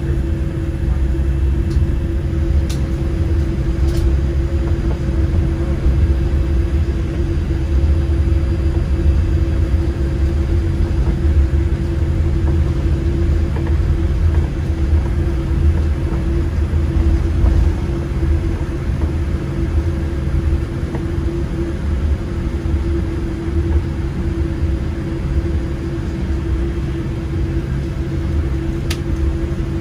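Steady low rumble with a constant hum over it, heard inside the cabin of a Boeing 787-8 with its engines running.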